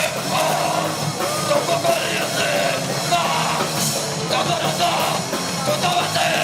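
A hardcore punk band playing a song live, loud and dense, with no break in the sound.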